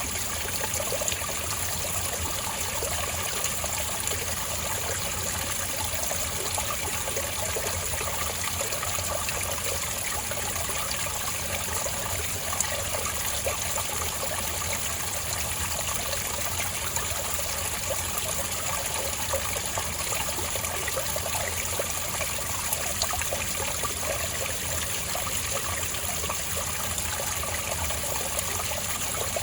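Spring water trickling and burbling steadily over rocks.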